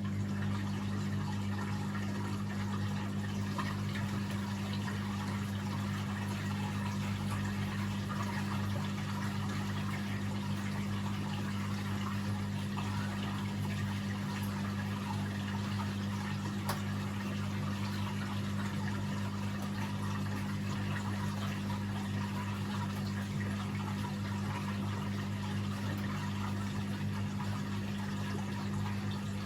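Beko WA 1050 washing machine running with water flowing through it and a steady low electric hum that does not change.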